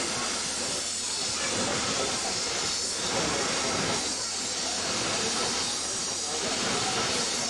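Steam-hauled passenger train running along, heard from aboard a carriage: a steady rushing noise without a clear beat.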